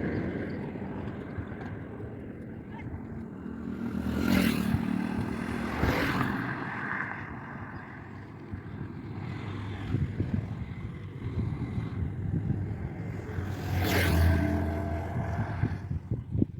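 Highway traffic: a steady rumble of engines and tyres, with vehicles passing close by about four and a half, six and fourteen seconds in.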